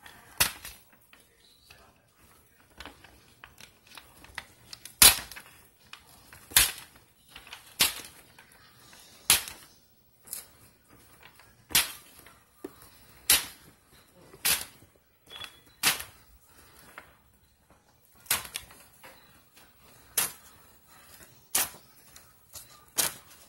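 A sheet of paper being handled, giving sharp crackling snaps, roughly one every second or so at uneven intervals.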